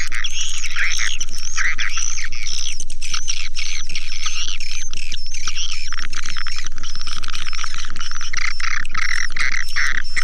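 Swiftlets twittering in a dense, continuous chorus of high chirps, mixed with rapid clicking.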